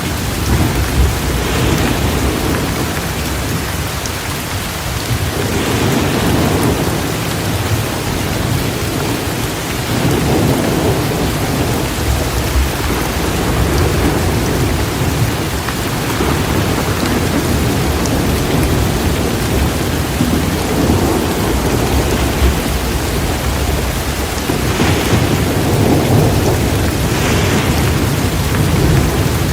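Torrential rain pouring steadily, with low thunder rumbling that swells and fades several times.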